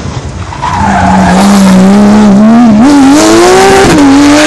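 Rally car engine at full throttle accelerating out of a hairpin, very loud. The engine note holds, then climbs, drops sharply at a gear change about four seconds in, and climbs again.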